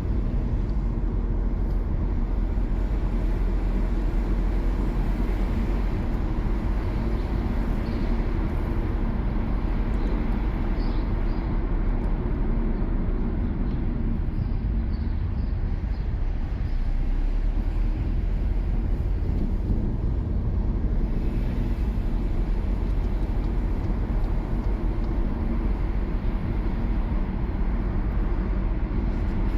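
Car driving at a steady speed: engine and tyre noise as an even low rumble.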